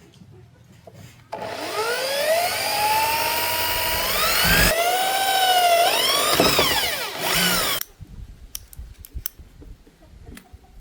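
Handheld electric power tool running for about six seconds. Its motor whine rises as it spins up, dips and recovers in pitch twice, then cuts off suddenly, over a harsh hiss.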